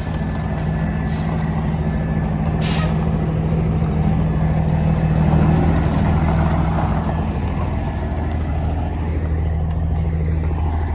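Heavy diesel truck engine idling steadily, with one short hiss of released air, typical of truck air brakes, nearly three seconds in.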